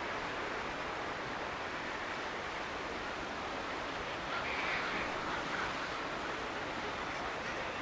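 Sea surf washing steadily against the shore below, a dense, even wash that swells briefly a little past the middle.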